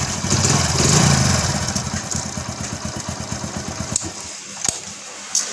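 Hero HF Deluxe motorcycle's single-cylinder engine running, then dying away about four seconds in, followed by two sharp clicks.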